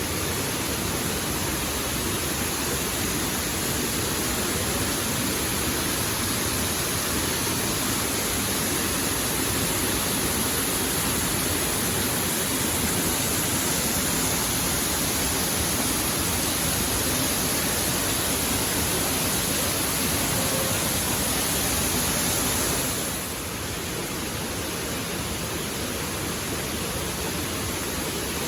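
Waterfall: a steady rush of falling water, even and unbroken. It drops slightly in level and brightness about three-quarters of the way through.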